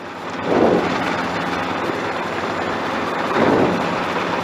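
Robinson R22 helicopter heard from inside the cabin: the piston engine and rotor run with a steady drone and rush of noise as it comes down to touchdown. Two brief, lower swells rise over it, about half a second in and again about three and a half seconds in.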